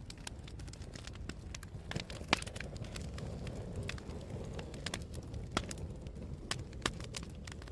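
Wood fire burning in a fireplace, crackling with irregular sharp pops and snaps over a steady low rumble. One pop about two seconds in is the loudest.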